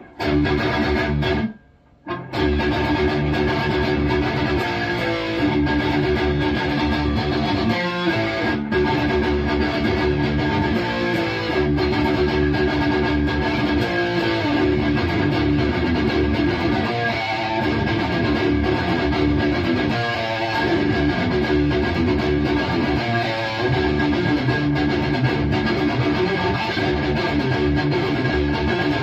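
Distorted electric guitar played through a Bogner Uberschall preamp with its sag control at zero, riffing continuously after a short pause about two seconds in.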